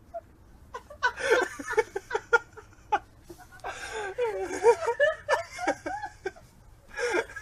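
A dog whining and yowling in wavering tones that slide up and down, in a spell about a second in and a longer one from about halfway.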